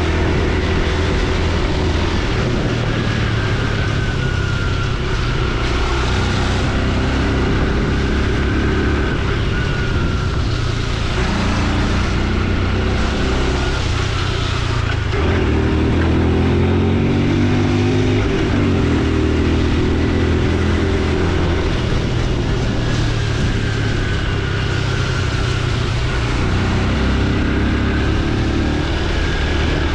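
Honda Super Cub C125's single-cylinder engine running on the move, its note rising and falling as the bike speeds up and slows, over steady wind and road noise.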